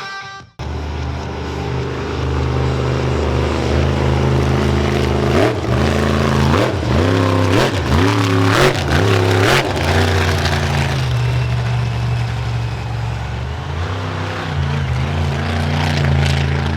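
Monster truck engine running at a loud idle, blipped up and down about five times in quick succession midway through, then settling back to idle.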